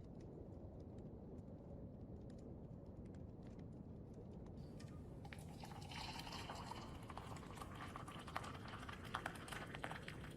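Kitchen sounds of hot chocolate being made: faint clicks and taps, then from about halfway in a crackling hiss with a run of sharp clinks and taps.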